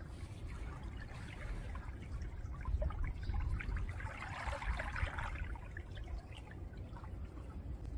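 Small waves lapping at the shore of a calm sea, water trickling and bubbling back through the stones, with one wash swelling up about halfway through. A low rumble runs underneath.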